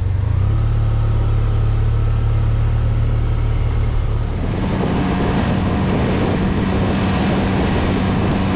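Motorcycle engine running at cruising speed on the highway, with wind rushing past. About four seconds in, the engine note steps higher and the wind noise grows.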